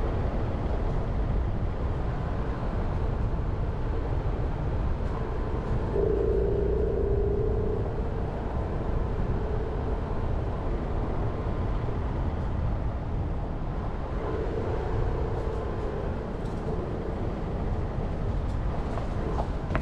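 Jeep Renegade driving, a steady rumble of engine and tyre noise. A humming tone comes up briefly twice, about six seconds in and again around fourteen seconds.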